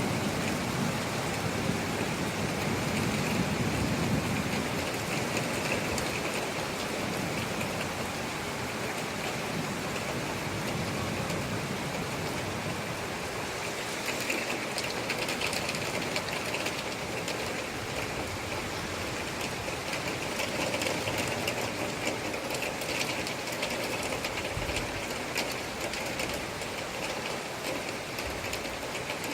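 Recorded rainstorm: steady heavy rain with a low rumble of thunder dying away over the first few seconds.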